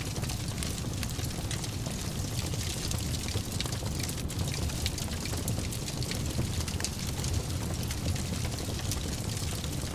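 Wood fire burning in a fireplace, crackling with many small, sharp pops over a steady low rumble of the flames.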